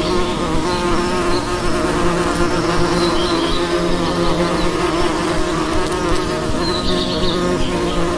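A bee buzzing steadily, with a few faint high bird chirps.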